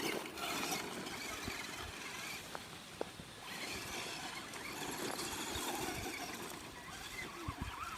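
Electric radio-controlled Ford Raptor truck driving, its motor whining faintly up and down over a steady rumble of tyres on the ground, with a sharp click about three seconds in.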